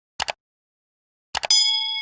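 A sound-effect ding: a few sharp clicks, then a single struck bell-like tone about one and a half seconds in that keeps ringing steadily with several clear overtones.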